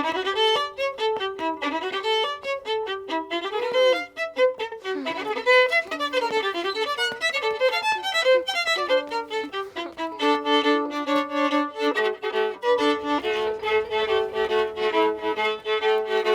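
Solo violin playing a lively tune of quick notes. About ten seconds in, the playing turns fuller, with several notes sounding together.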